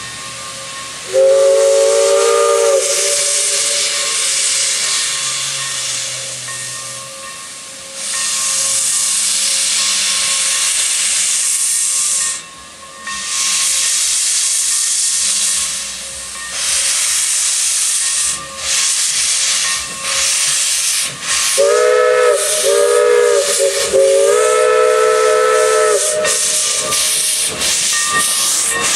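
1929 Baldwin 2-8-2 tank steam locomotive pulling away: its steam whistle blows briefly about a second in, then steam hisses loudly in long bursts with short gaps, coming in quicker surges near the end. Partway through the hissing the whistle sounds again in a run of short blasts followed by a longer one.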